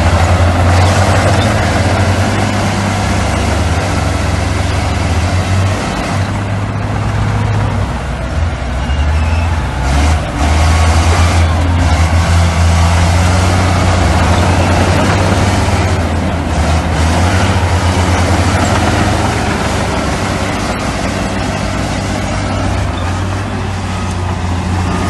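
Heavy earthmoving machinery, bulldozers and dump trucks, running: a steady low diesel engine note with mechanical noise over it, easing off briefly a couple of times.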